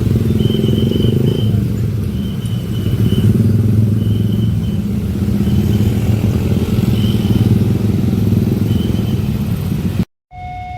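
A heavy diesel train runs close past a railway level crossing with a loud, steady engine rumble, while the crossing's warning alarm sounds a high beep every second or two. The sound cuts off abruptly about ten seconds in.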